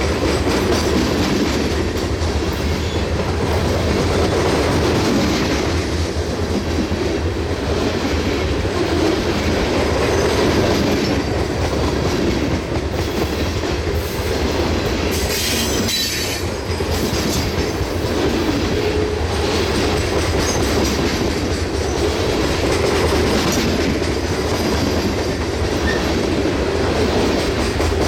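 Loaded coal hopper cars of a freight train rolling past steadily, their wheels clicking over the rail joints, with a brief high wheel screech about halfway through.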